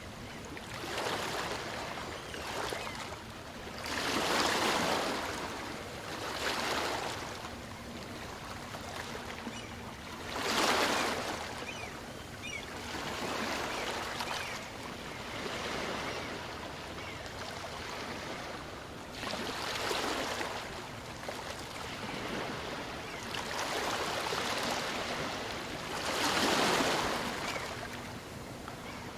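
Small waves of a calm sea washing in and out on a beach: a rush of surf every few seconds, with a softer hiss of water in between.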